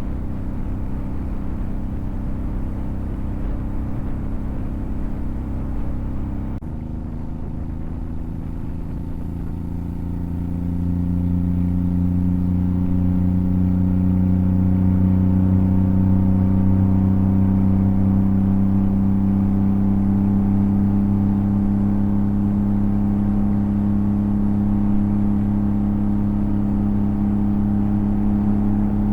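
Motorcycle engine running on the move, a rough low rumble at first. After a cut about seven seconds in, the engine note rises as the bike speeds up, then holds a steady, louder drone.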